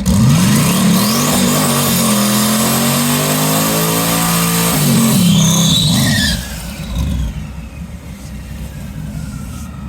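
Drag race car launching hard and accelerating away, its engine note climbing, breaking off and climbing again about five seconds in, then fading to a quieter rumble about six seconds in.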